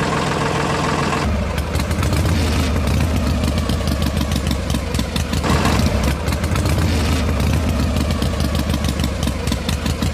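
An engine running steadily with a fast rattle. About a second in it settles into a deeper, heavier run.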